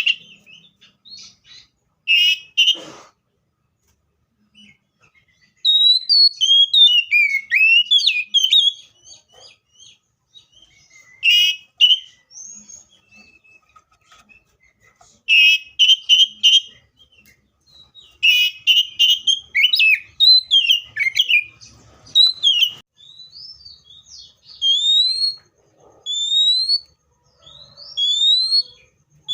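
Seychelles magpie-robin singing: loud whistled phrases in bursts with short pauses between them. Near the end comes a run of single rising whistled notes, about one a second.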